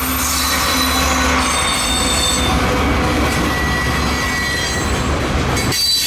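Norfolk Southern manifest freight train rolling past, its wheels squealing in several steady high tones over the rolling noise of the cars, with a low drone underneath.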